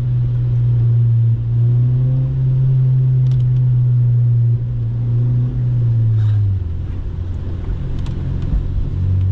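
Honda Civic Si's K20 four-cylinder engine and Rev9 catback exhaust giving a steady low drone while cruising. It eases off and drops in level about six and a half seconds in, then picks up again near the end.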